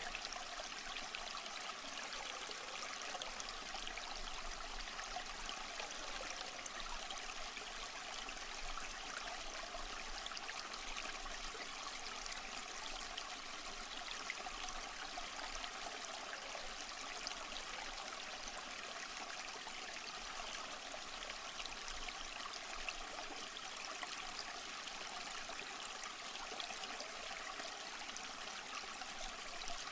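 A small stream flowing and trickling over rocks: a steady babble of water.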